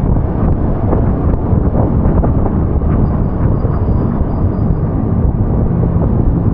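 Steady, loud rumble of a vehicle travelling along a wet street in the rain, with wind buffeting the microphone. A low engine hum comes through from about five seconds in.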